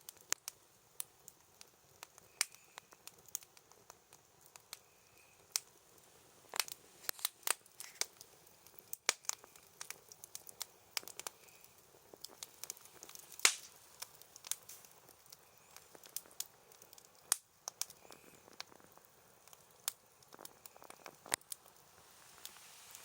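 Bonfire crackling, with irregular sharp pops and snaps from the burning wood and one louder pop about halfway through.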